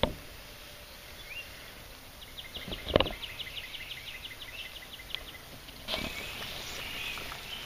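Evening outdoor ambience with a bird singing a fast series of short repeated high notes, about six a second for some three seconds, and a single sharp knock about three seconds in. Near the end a louder hiss of bacon sizzling in a frying pan comes in.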